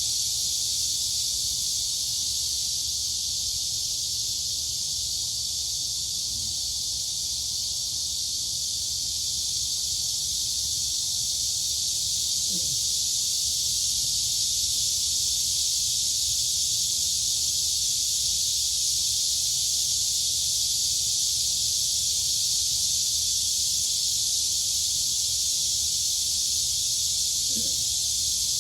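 Dense chorus of crickets and cicadas, a steady high-pitched shrill din that doesn't let up.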